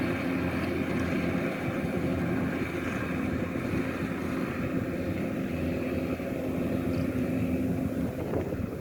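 Kubota DC-105X combine harvester's diesel engine running steadily at constant speed.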